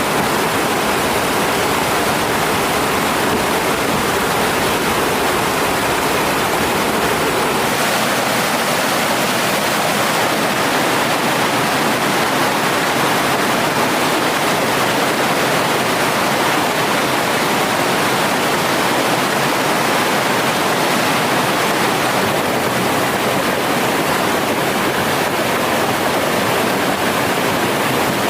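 Mountain stream rushing over rocks: a loud, steady wash of flowing water.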